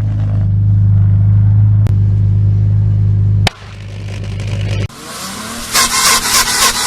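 Car exhaust droning at one steady low pitch, then cutting off suddenly about three and a half seconds in. A quieter drone follows and stops shortly after. Then comes a spell of crackling and clattering noise.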